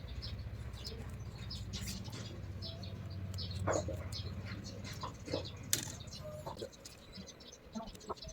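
Small birds chirping, many short high chirps, over a steady low hum that stops about two-thirds of the way through, with a few sharp clicks.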